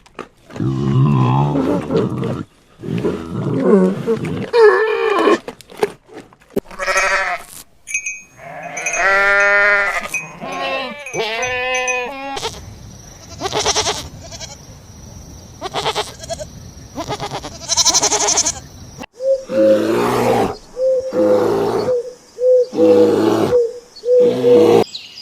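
Farm animals bleating in a string of short clips with abrupt cuts between them, ending in a run of about six similar calls.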